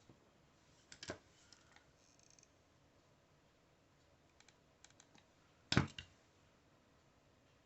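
A few light taps and clicks of small craft pieces and tools being handled and set down on a work table: a cluster about a second in, scattered small ticks, and the loudest pair of knocks near the end.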